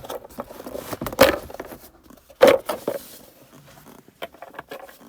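Plastic centre-console parts being worked loose by hand: scraping and clicking, with two louder rasps about a second and two and a half seconds in as the storage box is tugged against the trim.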